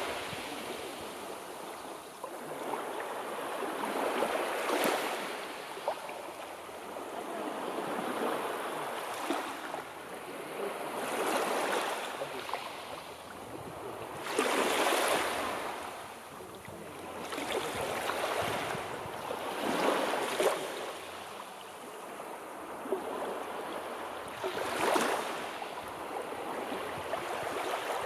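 Sea waves washing in over a steady wash of surf, swelling every few seconds as each wave breaks and runs up.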